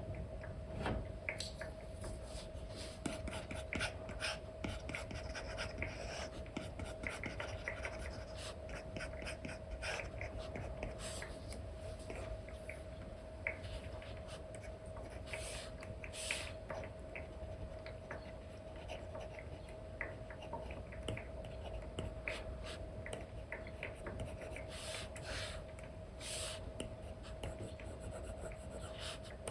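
Apple Pencil nib scratching and tapping on an iPad's paper-feel screen protector: short scratchy strokes and light ticks at an irregular pace, over a steady low hum.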